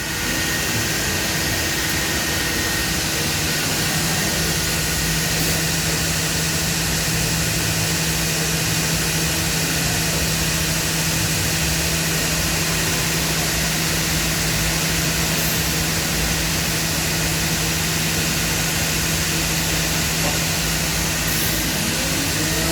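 Trima BFM 310/110 CNC machining centre running: a steady hum over a loud hiss, with a rising whine near the end.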